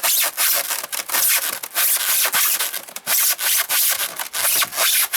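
A homemade hole saw, a pipe with saw teeth cut into its end, being worked back and forth into a styrofoam box, making a rapid, uneven scratching and rasping as the teeth cut through the foam.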